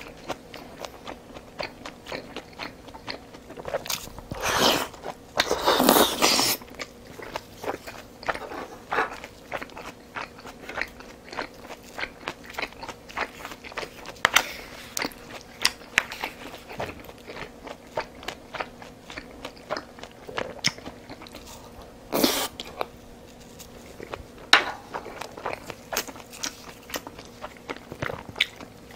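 Close-miked eating sounds of a person chewing and biting rice and Korean side dishes such as spicy stir-fried pork. Many small wet mouth clicks run throughout, with longer, louder noisy bursts around five to six seconds in and again about 22 seconds in.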